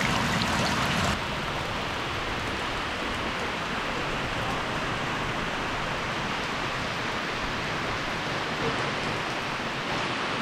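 Heavy rain pouring down, splashing into buckets and a basin of water for about the first second. Then it is heard as a steady, somewhat softer rain hiss after a sudden drop in level.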